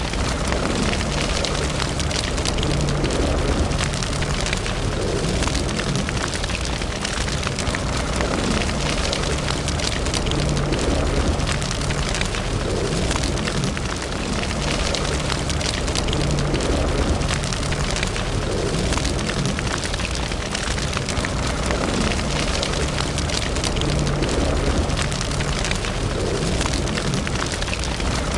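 Wood fire burning in a fireplace: a steady low rumble of flames with dense, continuous crackling and small pops.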